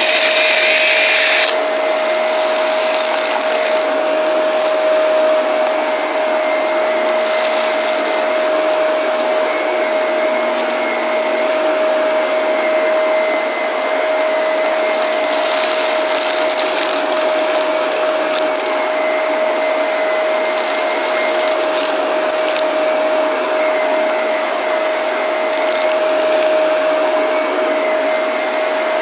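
Shark vacuum cleaner running steadily with a constant motor whine, with crunchy crackling at intervals as debris is sucked up.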